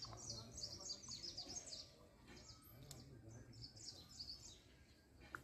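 Faint chirping of small birds: quick, high, short chirps in busy runs through the first two seconds and again around four seconds in, over a low background hum.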